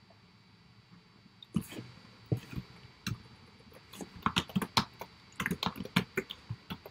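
Computer keyboard typing: scattered sharp keystrokes starting about a second and a half in, turning into quicker runs of keys in the second half.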